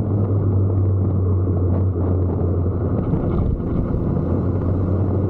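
Motorcycle engine running at a steady speed, a low, even drone that neither rises nor falls.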